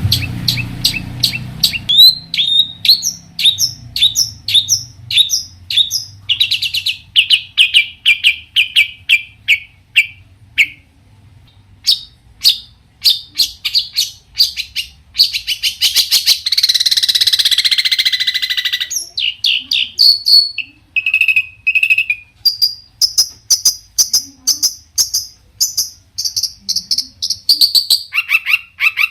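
Long-tailed shrike (cendet) singing a varied, mimicking song. It gives fast runs of short repeated chirps, some high and sharply downslurred and some lower, with a harsh rasping chatter partway through.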